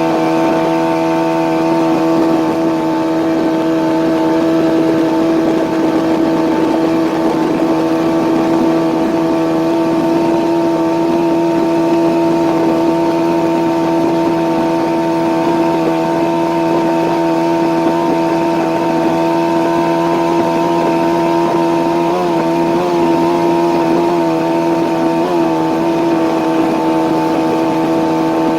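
Yamaha outboard jet motor on a jon boat running at a steady cruising speed, an even engine drone that wavers slightly in pitch a few times near the end.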